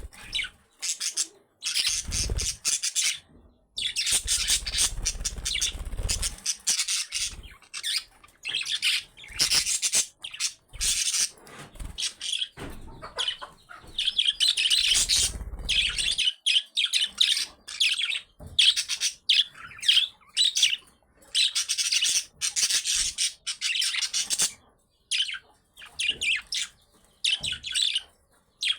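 Budgerigars chirping and chattering in quick, broken bursts of high-pitched calls with short pauses between them. A low rumble sits under the calls at a few points.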